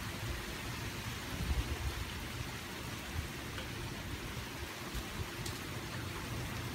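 Steady hurricane rain falling, with gusting wind rumbling unevenly on the microphone; one stronger gust about a second and a half in.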